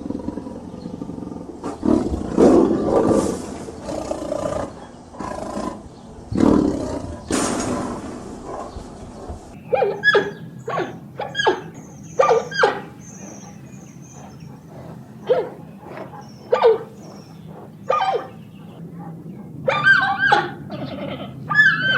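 A big cat growling and roaring in low, rough bursts. About ten seconds in, this cuts to a different animal giving short, high-pitched calls, repeated at uneven intervals of about a second, some close together near the end.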